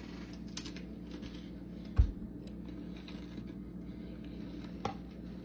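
Faint crunching of a cracker topped with sardine salad being chewed, with one dull thump about two seconds in.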